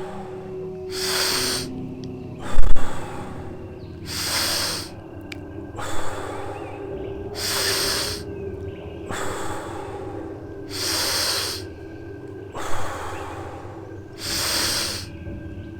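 Forceful, rhythmic deep breathing: a strong inhale followed by a blown-out exhale, about one cycle every three and a half seconds. These are the paced power breaths of the Wim Hof breathing method. A short low thump about two and a half seconds in is the loudest sound.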